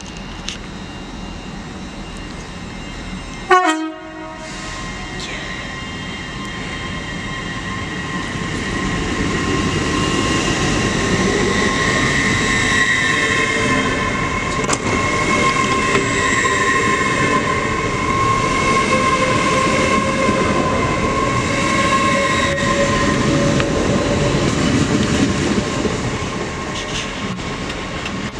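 A train at a railway station. A short horn toot sounds about three seconds in, then the train's running noise rises into a steady rumble with a high whine, holds, and fades near the end.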